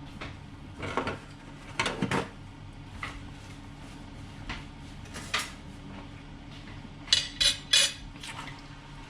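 A spoon scraping and knocking against a cooking pot as the coconut sauce is stirred, ending in three sharp clinks in quick succession near the end.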